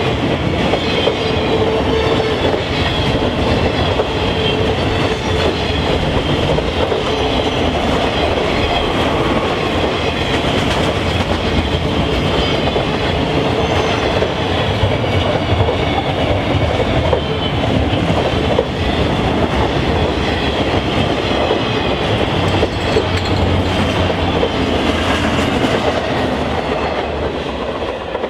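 Train passing close by: railcars rolling steadily on the rails, the wheels clicking over the rail joints. The sound stays steady and loud, then starts to fade near the end.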